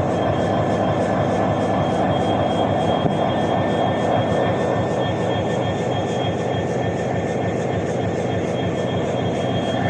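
Class 77 diesel locomotive pulling away: its EMD two-stroke diesel running steadily under load, with a high steady whine over the engine note.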